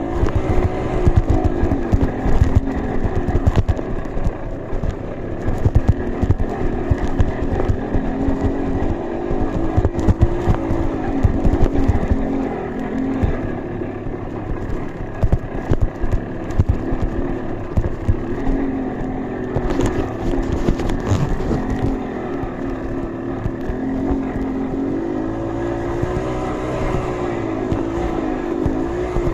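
Trail motorcycle engine running under changing throttle, its pitch rising and falling again and again, with frequent low thumps and knocks.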